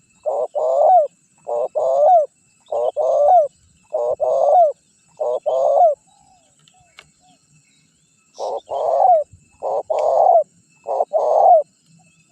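Spotted dove (tekukur) cooing, a lure call for wild doves. Each phrase is a short coo followed by a longer one that rises and falls, repeated about once a second. There is a pause of about two seconds midway, then three more phrases.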